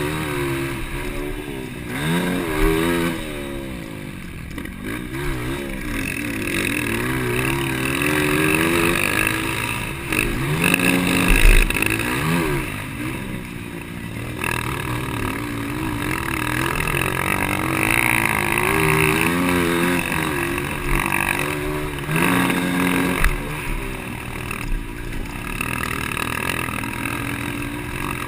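Several 200cc motocross motorcycles racing, their engines revving up and down again and again as they accelerate and shift, with pitches overlapping.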